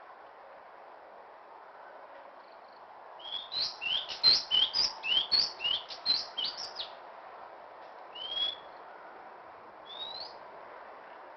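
A bird calling: a quick run of about a dozen short, rising whistled notes, three or four a second, then two single rising whistles a couple of seconds apart, over a steady background hiss.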